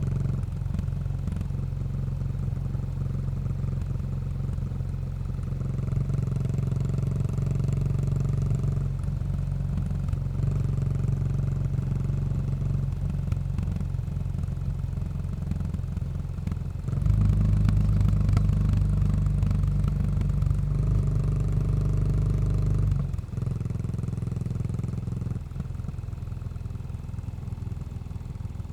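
Exhaust note of a 2018 Yamaha SR400's air-cooled single-cylinder engine through a Goods tapered cone slip-on muffler, running steadily under way. Past the middle it gets louder for several seconds, then eases off suddenly.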